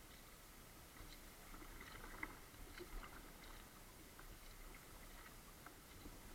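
Faint water sounds of a kayak on the move: scattered small drips and light splashes from the paddle, heard as irregular soft clicks over a quiet hiss.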